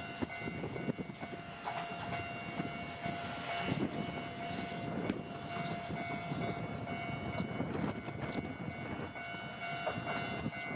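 Ichibata Electric Railway electric trains running on the line: a steady rumble with a few held tones through the middle, as one train moves away and another approaches.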